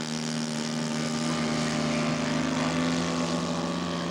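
Engine and propeller of a radio-controlled scale model Spacewalker airplane running steadily, a buzzing note that holds nearly even in pitch.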